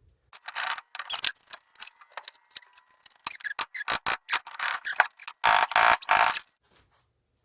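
Hammer blows on a punch driving the rivets out of a riveted clutch disc to free its hub: a run of sharp, irregular metal strikes, with the struck steel ringing for a couple of seconds near the middle.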